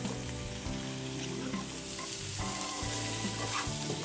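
Hot oil sizzling steadily in a nonstick pan as cut Malabar spinach stems (pui data) are dropped in among frying onions and prawns, with a few light clicks. Near the end a wooden spatula starts stirring them.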